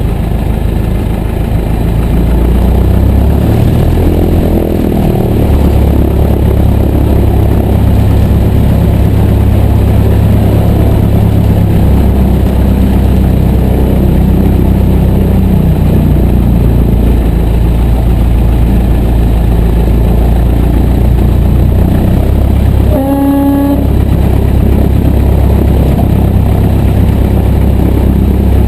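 Piper J3 Cub's small four-cylinder Continental A-65 engine and propeller running at low power, a steady low drone whose pitch steps up and down a few times. A brief higher whine comes in about three-quarters of the way through.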